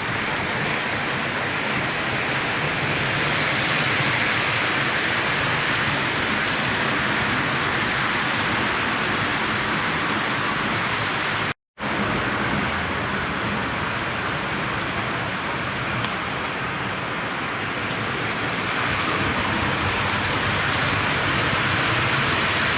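Postwar Lionel O gauge toy steam locomotive running around the track: a steady rushing of metal wheels on the rails and the motor, swelling and easing slowly as the train circles. The sound cuts out briefly about halfway through.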